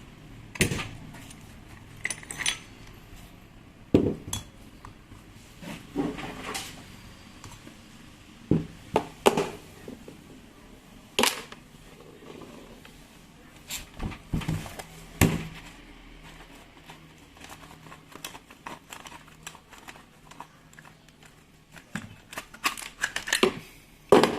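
Metal tool parts and hand tools handled on a workbench while a rotary hammer is taken apart: irregular clinks, taps and knocks, some in quick clusters, with pauses between them.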